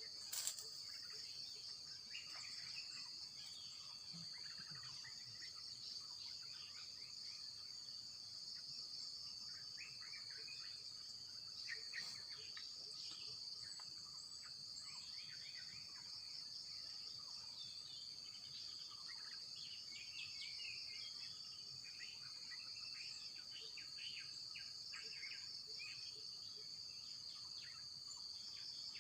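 Steady, high-pitched chorus of insects droning without a break, with scattered short bird chirps over it. A sharp click comes about half a second in and a fainter one near the middle.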